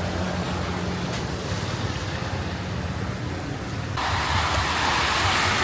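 Traffic on a flooded street: vehicle engines running steadily, then about four seconds in a sudden loud rush of water as a vehicle pushes through the floodwater.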